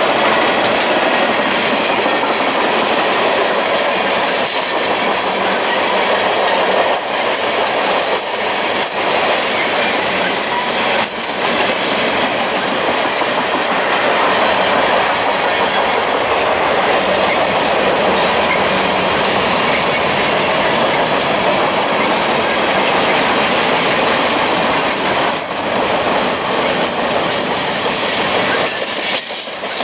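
A train rolling past, its steel wheels running steadily over the rails, with brief high-pitched wheel squeals about a third of the way in and again near the end.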